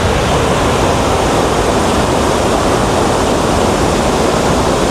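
Waterfall rushing steadily and loudly, an even wash of falling water.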